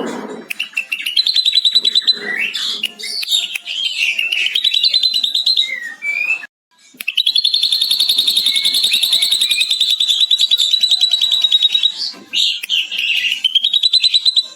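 Ashy drongo singing mimicked lovebird chatter: varied chirps and warbles, then, after a short break, one long, very rapid chattering run of about five seconds, the lovebird 'ngekek' imitation, before more chirps.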